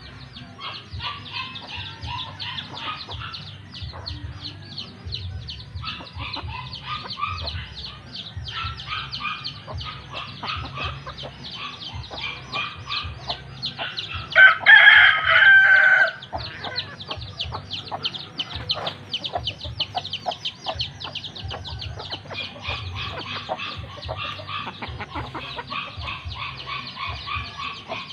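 A rooster crows once, loudly, about halfway through. Around it, chickens cluck and chirp continuously.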